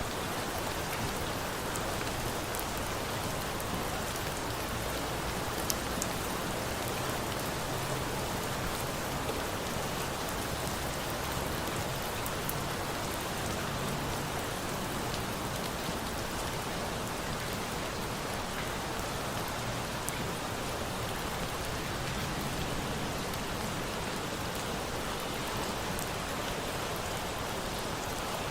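Steady rain falling, with a campfire adding a few faint sharp pops now and then.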